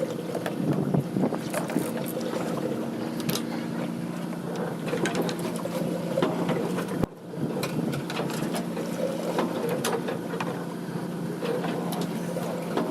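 A boat's engine running with a steady drone, with scattered light clicks and knocks of gear being handled on deck. The sound breaks off briefly about seven seconds in, then resumes.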